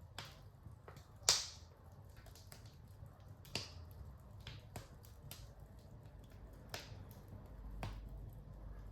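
Wood fire in a fireplace crackling, with irregular sharp pops, the loudest a little over a second in and another about three and a half seconds in, over a low steady rumble.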